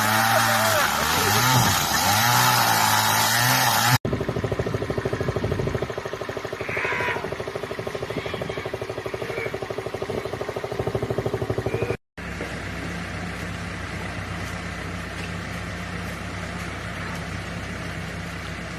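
Motor vehicle engines running. At first the engine's pitch rises and falls. After an abrupt change about four seconds in, an engine runs with a fast, even pulse, and after another abrupt change near the middle it settles into a steadier, lower hum.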